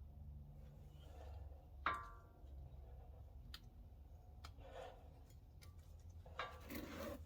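Light metallic clicks and clinks of brake parts and tools being handled. One sharper clink about two seconds in rings briefly, and a few faint ticks follow. A low steady hum runs underneath.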